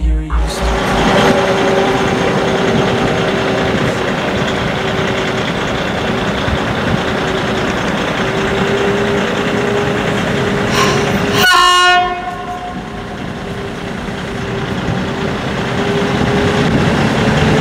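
Pafawag EP09 ('Epoka') electric locomotive-hauled train running through the station: steady running rumble with a steady whine. A short horn note sounds about eleven seconds in, after which the noise drops briefly and then builds again.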